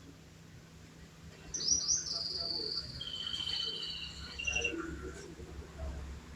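Domestic canary singing. After a quiet first second and a half, a phrase of quick high notes runs into long rolling trills at two pitches, which end about three seconds later.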